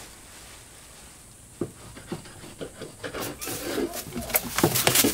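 Insulation being handled and pushed into a wall bay: rubbing and rustling with a few knocks, growing louder and busier over the last two seconds.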